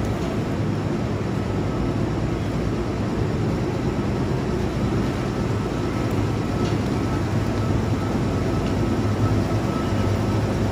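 Kintetsu 12200 series 'Snack Car' limited express train pulling slowly into a station platform: a steady low rumble of the train running in, growing a little louder as it draws near.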